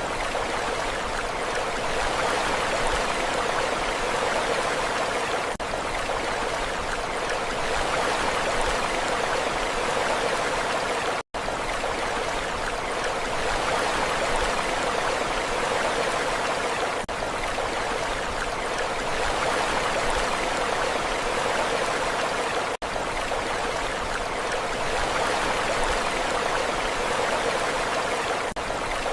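Steady rushing water, an even wash without distinct wave swells, that cuts out for an instant twice.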